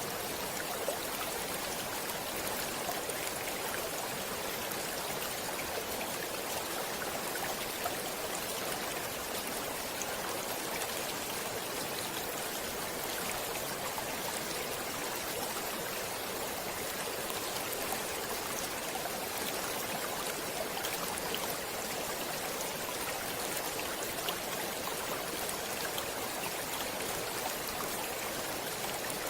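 Running water of a stream, a steady, even rush with faint small splashes throughout.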